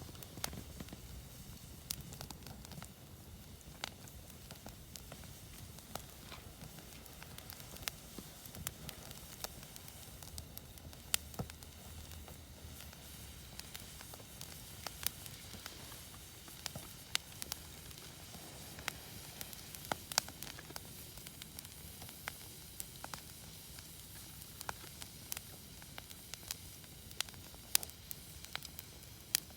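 Wood bonfire crackling: a steady soft hiss with irregular sharp pops and snaps.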